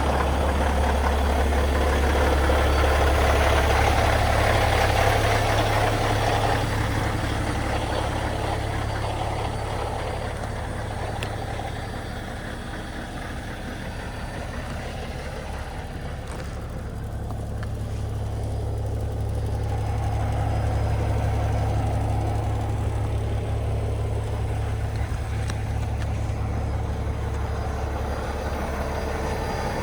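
Cummins X15 inline-six diesel of a Peterbilt 389 idling steadily, a low drone that fades somewhat in the middle and comes back up.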